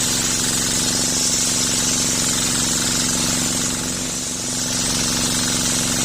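Engine of a homemade circular sawmill (serkel) running steadily with a fast pulsing beat, the spinning saw adding a high hiss. About four seconds in, the engine note dips briefly and the hiss fades, then both return.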